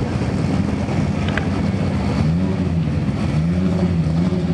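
Drag race car engine running at idle, its low pitch wavering gently up and down, with a brief click about a second and a half in.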